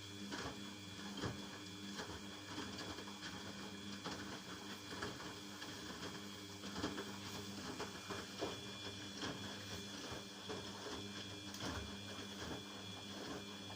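Washing machine running: a steady motor hum with irregular light clicks and knocks throughout.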